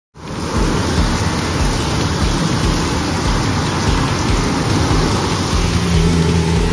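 Heavy rain pouring, a loud steady rush with a deep rumble underneath, cutting in suddenly. About six seconds in, a steady low hum joins.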